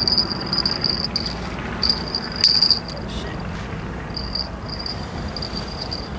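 Fishing reel being cranked to reel in the line: a high, steady whirring that starts and stops several times as the handle is turned in spurts.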